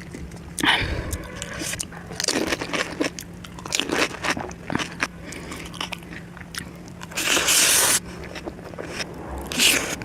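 Crisp hollow panipuri shells being bitten and chewed close to the microphone, with repeated crunches and a louder rush of noise lasting under a second about seven seconds in.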